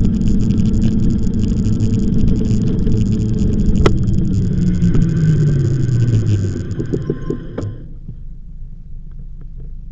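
Loud, steady rumble of motion with a droning tone that falls in pitch about five seconds in, then the rumble dies down about eight seconds in, leaving a quieter background.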